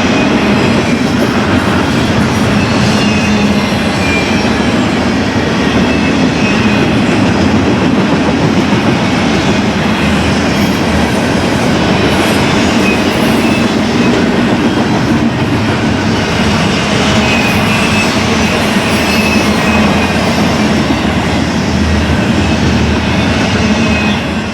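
Freight cars of a BNSF intermodal train rolling past with a steady rumble and clatter of wheels on the rail joints, and faint wheel squeal now and then.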